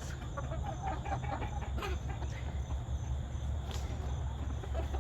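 A flock of backyard chickens clucking in short scattered calls over a steady low rumble.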